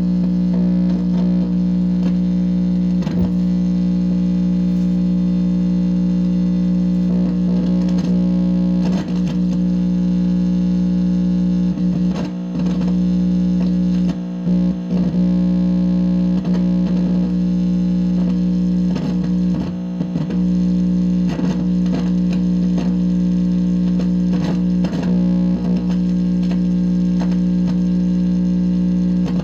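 Steady, distorted electrical buzz and hum coming through an amplifier speaker, with irregular crackles and short warbling chirps over it. The recordist takes these sounds for signs of a directed-energy attack.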